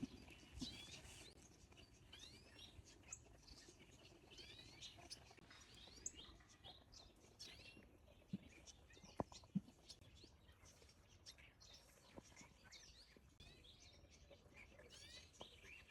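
Faint chirping of many small birds: short, quick chirps that rise and fall in pitch, scattered throughout. There are a few soft sharp taps about eight to ten seconds in.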